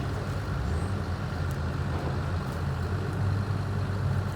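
Excavator's diesel engine running steadily at low revs.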